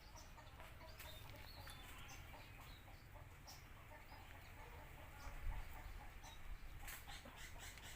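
Faint scattered bird calls, short high chirps, over a low rumble of wind on the microphone, with a single knock about five and a half seconds in.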